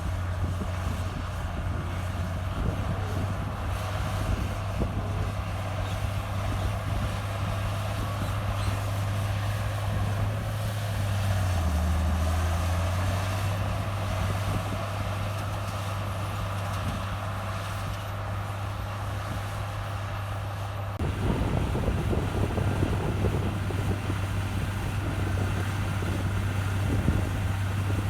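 Diesel engine of heavy earthmoving machinery running steadily with a deep hum. Its pitch drops briefly about halfway through, and it turns abruptly to a rougher, heavier rumble about three-quarters of the way in.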